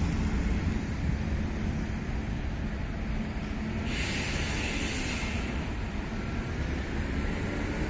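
Steady low rumble of a passenger train rolling away along the tracks, mixed with street traffic. A brief, louder hiss comes in about four seconds in.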